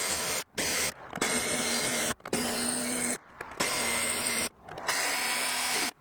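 Power drill running in several short bursts, each stopping abruptly: drilling out the rivets that hold a BMW E36 window regulator in the door.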